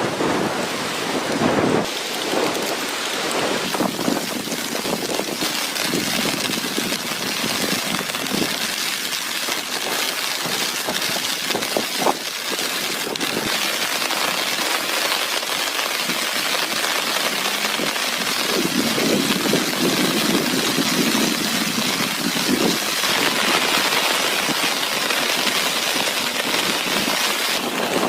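Heavy rain falling steadily, a dense hiss with scattered individual drop ticks.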